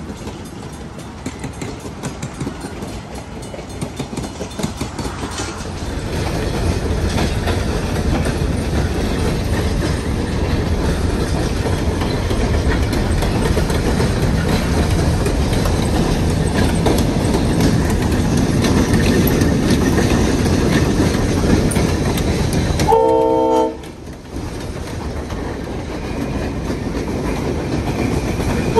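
A Napa Valley Wine Train diesel locomotive and its cars running past on the rails, the rumble growing steadily louder. About three-quarters of the way through, the locomotive's horn sounds a short chord of several notes, the sound drops off suddenly, and another horn blast starts right at the end.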